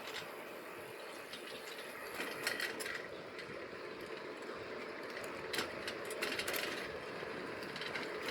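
Bicycle being ridden: a steady rolling noise with scattered clicks and rattles from the bike.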